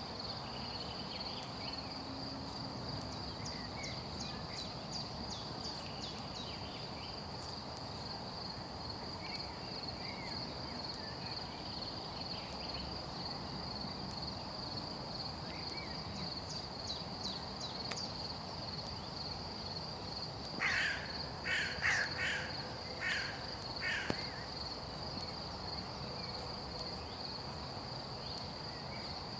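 Crickets chirring steadily at one high pitch. About two-thirds of the way through, a bird gives a run of about six short calls.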